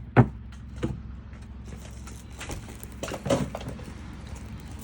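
A few sharp knocks and clatter of plastic toys being handled, the loudest about a quarter second in and another short cluster about three seconds in, over a steady low hum.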